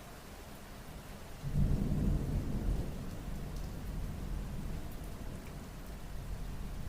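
Steady rain, with a low rumble of thunder breaking in about a second and a half in and slowly fading away.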